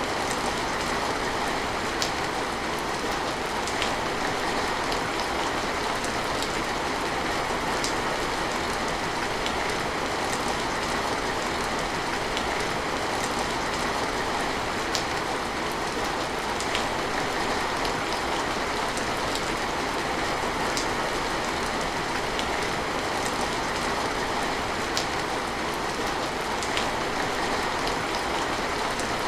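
Steady rain, an even hiss with scattered sharp drops ticking through it.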